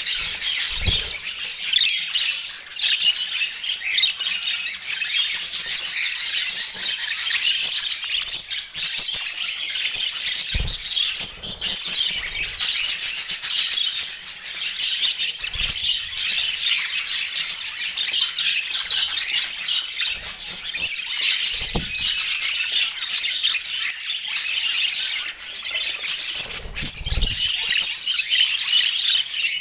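Budgerigars chattering, chirping and squawking without a break. A few dull thumps are scattered through it.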